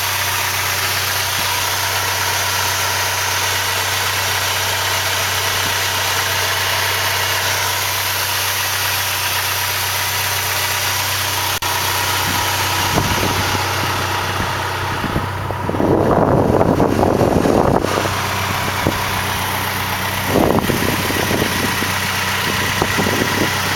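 Engine idling steadily with water being fed into it. About two-thirds of the way through, a louder, irregular rough stretch lasts a couple of seconds, and a shorter one follows a few seconds later.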